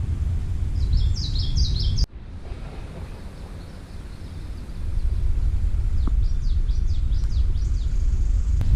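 A small songbird sings two short phrases of quick, high, down-slurred notes over a steady low rumble. The rumble cuts out suddenly about two seconds in and comes back a few seconds later.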